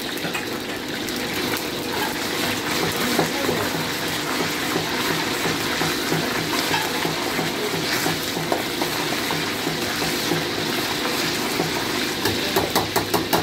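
Batter frying in hot oil in a steel wok: a steady sizzle as a ladle stirs it. Near the end, a quick run of sharp metal clicks as the ladle knocks against the wok.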